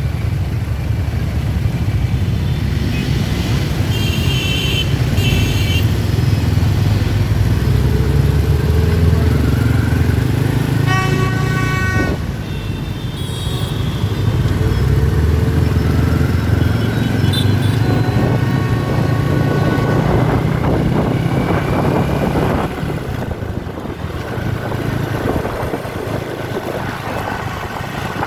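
Dense motorbike traffic running in a crowd, with horns tooting over it: a clear horn blast about eleven seconds in and shorter high toots elsewhere.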